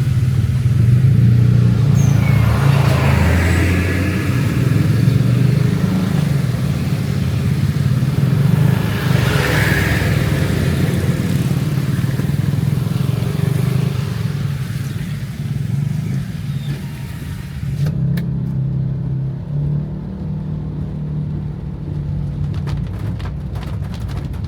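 A car driving on a wet road, heard from inside the cabin: a steady low engine and road rumble, with tyre-and-rain hiss that swells twice, around 3 and 10 seconds in. About 18 seconds in the hiss drops away suddenly, leaving the rumble and scattered ticks.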